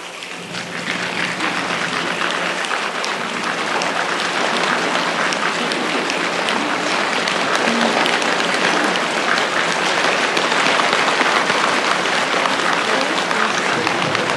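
An audience making a rainstorm with their hands: many people clapping and patting in a dense, crackling patter that swells over the first few seconds, then holds at full strength like heavy rain.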